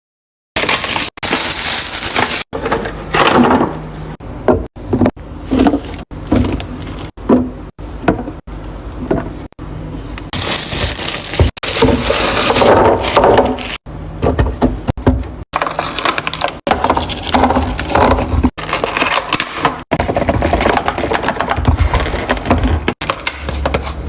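Fridge restocking: items being handled and set in place, heard as a quick run of knocks, clatter, crinkling and crunching, cut together from short clips with abrupt breaks.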